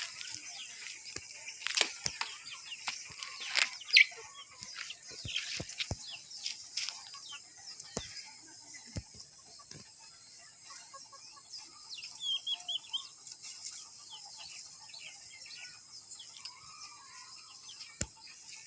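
A flock of young desi chickens peeping and clucking in many short high calls, with scattered sharp clicks and a steady high hiss behind them.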